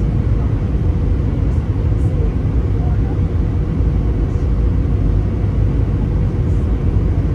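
Steady low rumble of an Airbus A320 as heard from inside the passenger cabin, with a faint constant hum above it.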